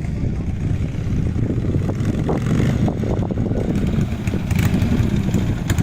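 Harley-Davidson Sportster's V-twin engine running at a low idle, getting slightly louder over the last few seconds.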